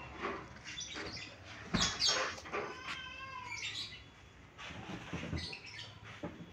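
Birds chirping and calling in short bursts, with one longer call about three seconds in. A single sharp knock comes just under two seconds in.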